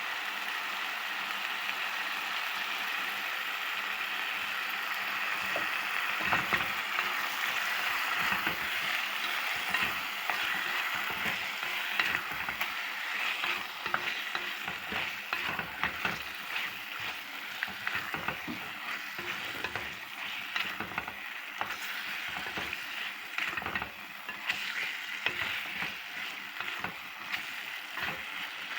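Chicken with tomato paste frying and sizzling in a pan. From about six seconds in, a utensil stirs it with repeated scrapes and knocks against the pan.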